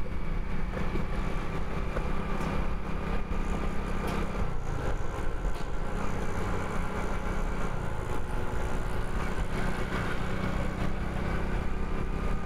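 A motorcycle engine running steadily under the rider as it cruises along the road, mixed with road and air noise. The engine note dips and climbs again about halfway through.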